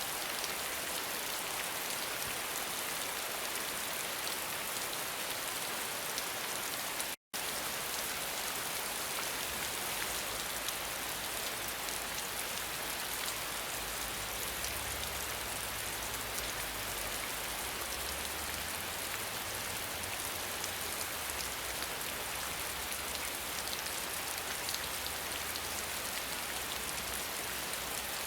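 Steady, heavy rain falling, a dense even hiss with scattered drop patter. It cuts out for a split second about seven seconds in, and a faint low rumble runs beneath it from about ten seconds on.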